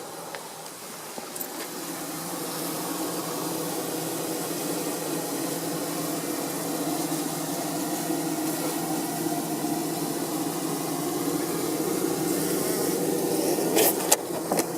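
Honey bees buzzing around an open hive: a steady droning hum that grows slightly louder. A few sharp knocks come near the end.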